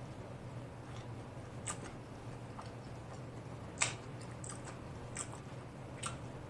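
A person chewing a mouthful of food, with faint wet mouth clicks and smacks a few times, the loudest about four seconds in.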